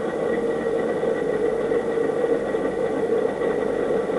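Steady mechanical hum and whir, unchanging, with a constant low-mid drone and a thin high tone.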